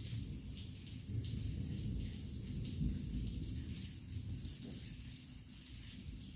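Heavy thunderstorm rain falling and splashing with many sharp drops, over a continuous low rumble.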